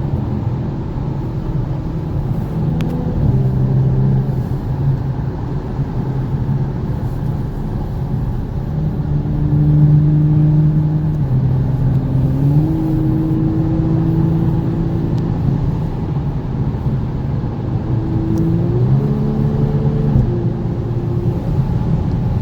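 2019 Audi S5 Sportback's turbocharged V6 engine running at speed, heard from inside the cabin over steady tyre and road noise. Its pitch holds steady for stretches, then steps or glides up and down several times as the engine load and revs change.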